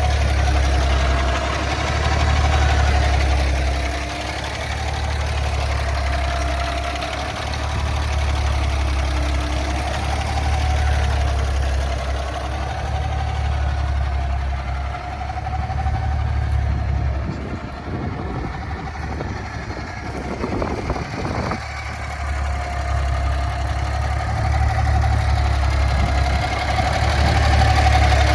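Compressed-natural-gas engine of a 2014 Kenworth T800 semi truck idling steadily. A few seconds of irregular clattering noise come in about two-thirds of the way through.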